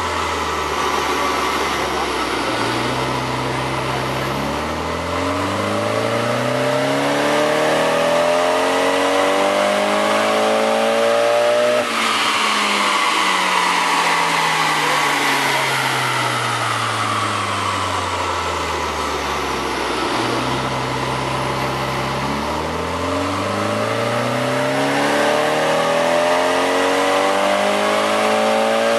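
Nissan PS13's engine making full-throttle dyno pulls: the revs climb steadily for about ten seconds, are cut abruptly near the middle, wind down over several seconds, then a second climb starts near the end.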